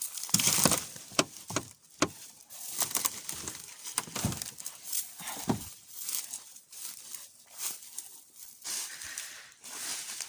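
Footsteps crunching and rustling through dry brush and debris, with irregular cracks and snaps throughout.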